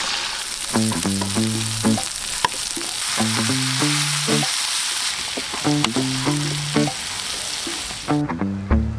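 Food sizzling hard in hot cooking oil, with a few light clicks, cutting off abruptly about eight seconds in. A background melody of short plucked notes plays throughout.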